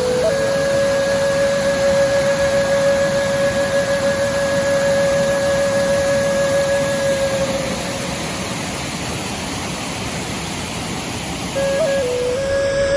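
Steady rush of a waterfall, with a long held musical note over it that breaks off about two-thirds of the way through and comes back near the end in small steps of pitch.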